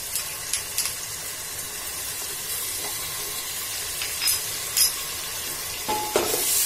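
Oil sizzling steadily in a pressure cooker as ginger-garlic paste fries among browned sliced onions, with a few short knocks of a wooden slotted spatula against the pot; stirring picks up near the end.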